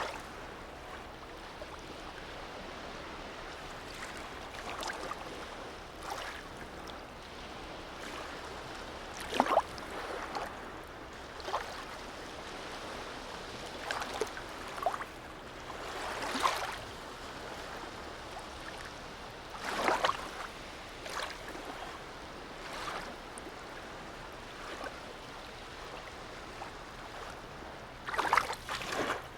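Harbour seawater lapping, with irregular small splashes every few seconds over a steady low wash.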